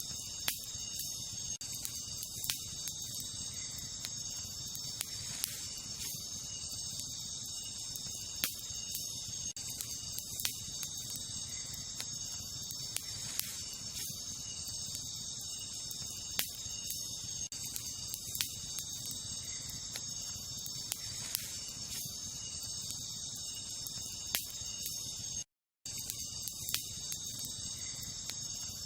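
Wood campfire crackling, with sharp irregular pops and snaps, over a steady high-pitched chorus of crickets or similar night insects. The sound cuts out completely for a fraction of a second near the end.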